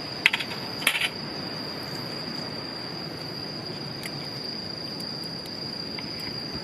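Insects trilling steadily on one high note, with a few sharp clicks in the first second.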